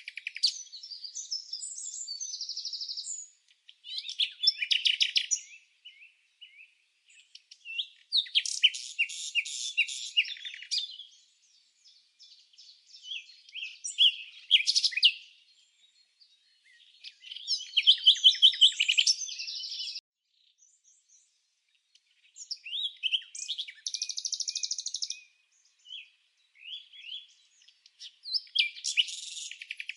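Songbird singing: high-pitched phrases of rapid chirps and trills, each a few seconds long, with short pauses between them.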